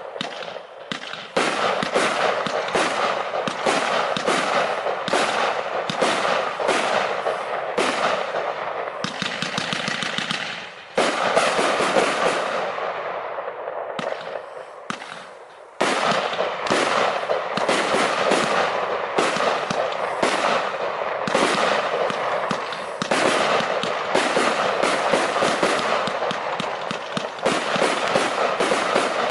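Lesli Cryptex 121-shot, 25 mm fireworks battery firing shot after shot in rapid succession, a dense barrage of launches and bursts. About 13 seconds in the firing thins out and fades, then starts again suddenly about 16 seconds in.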